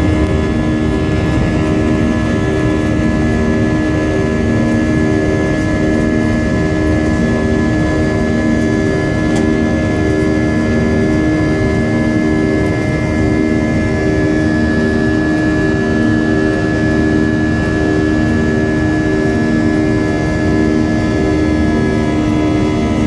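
Boeing 737 jet engines running steadily at high power, a loud even drone with a slow, regular pulsing beat in its low hum.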